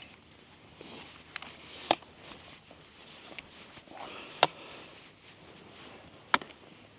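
Sharp clicks and knocks of a tripod being handled and set up, three loud ones a couple of seconds apart with a few softer taps and some rustling between.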